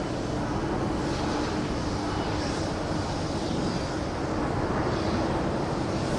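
Jet engines of a Boeing 767-200F freighter running: a steady, even rush of noise with a low hum underneath.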